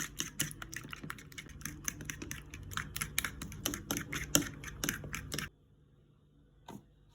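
A quick, irregular run of sharp clicks and taps, several a second, that stops about five and a half seconds in, followed by one lone click near the end.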